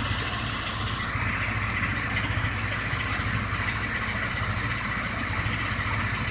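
Tractor-driven mini rice mill (paddy huller) running: a steady tractor engine beat under a continuous hiss from the mill, which grows a little stronger about a second in.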